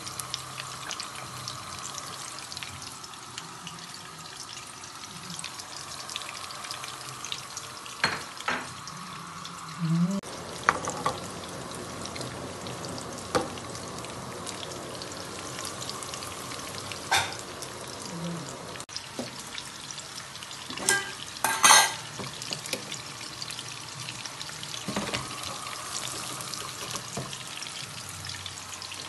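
Ghee sizzling steadily in a pan as small minced-mutton kebabs shallow-fry. A few short sharp knocks stand out, the loudest about 21 seconds in.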